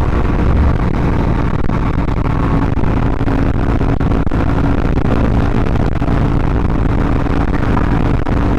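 Suzuki DRZ400SM's single-cylinder four-stroke engine running through a full Yoshimura RS-2 exhaust, holding steady revs while cruising, with wind rush underneath.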